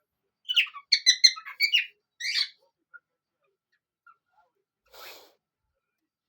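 Pet parrot chirping and whistling in a quick run of short notes for about two seconds, followed by a short breathy puff a few seconds later.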